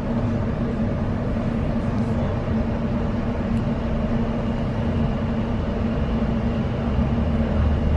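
Interior running noise of a Greater Anglia Class 720 electric multiple unit under way: a steady low rumble with a constant hum through it, the rumble swelling slightly near the end.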